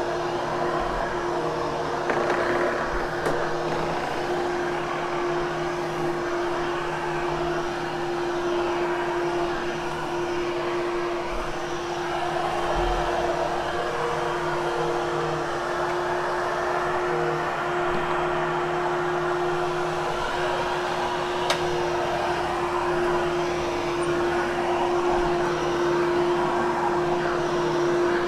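Hoover Hushtone upright vacuum cleaner running steadily with a constant motor hum and airflow hiss while grooming damp carpet pile, its sound swelling and easing a little with each push and pull.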